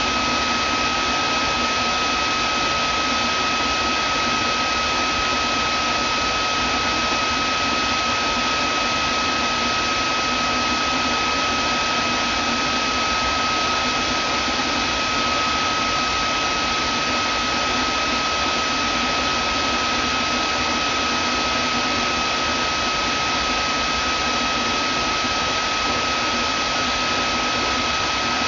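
Vacuum cleaner running steadily: an even rushing hiss with a constant high whine.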